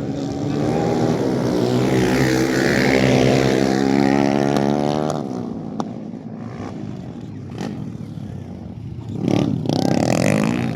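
Underbone motocross bikes racing past with engines revving hard, loudest in the first half as they go by close. Another bike's engine swells up near the end.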